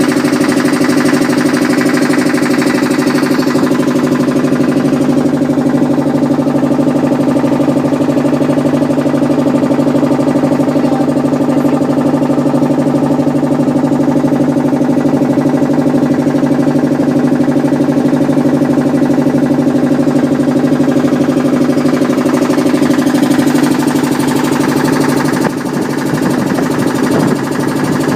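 A motorboat's engine running loud and steady with an even chugging beat, dropping a little in level near the end.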